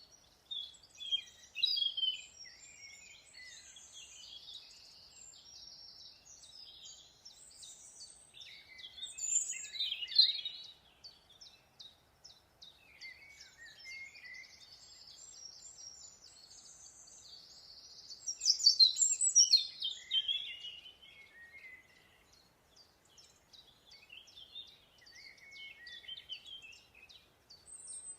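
Songbirds singing: bursts of chirps, rapid trills and whistled notes, loudest about two, ten and nineteen seconds in.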